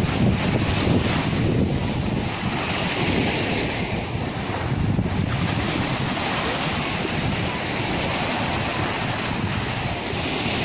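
Sea waves: a continuous rush of surf, with wind buffeting the microphone and adding a low rumble.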